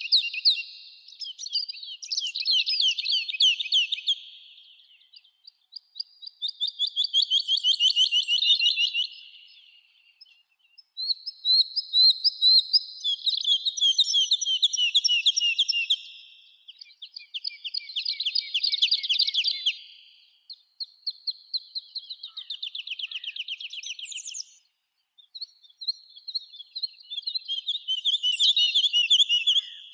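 Songbirds singing: phrases of fast, high trilled notes, each two to four seconds long, repeated about every four or five seconds with short pauses, at times overlapping.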